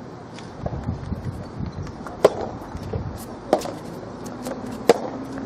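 Soft tennis rally: a soft rubber ball struck by rackets three times, about a second and a half apart, with fainter knocks under steady background noise.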